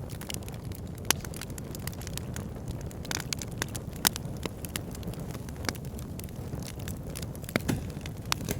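Wood fire in a log burner crackling: a steady low rumble of burning with scattered sharp pops and snaps, the loudest about a second in, near four seconds and a few close together near the end.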